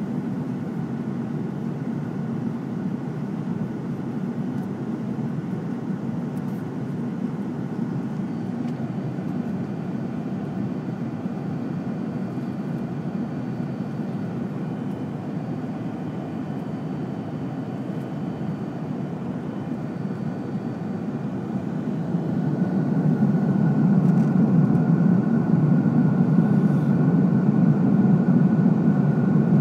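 Airliner cabin noise in cruise flight aboard an Airbus A340-600: a steady low roar of airflow and engines. It grows louder about three-quarters of the way through.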